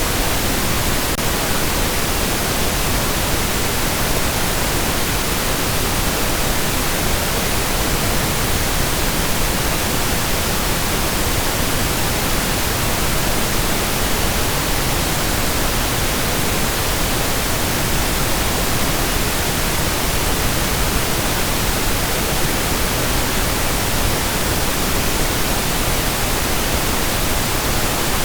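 Steady pink noise: a constant, even hiss spread across all pitches, unchanging throughout.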